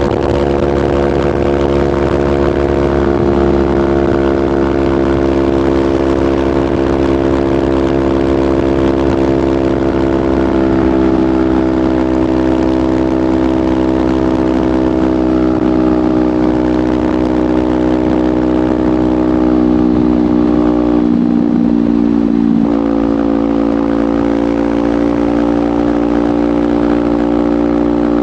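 Kawasaki Ninja 500's parallel-twin engine running at steady cruising revs through a LeoVince GP Corsa Evo slip-on exhaust. The pitch sags slowly, roughens briefly about three quarters of the way in, then holds steady again.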